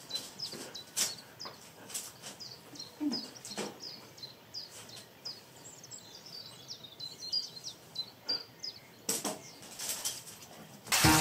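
Small birds chirping, many short high chirps repeating one after another, with a few sharp clicks in between. Right at the end a loud sizzling cuts in.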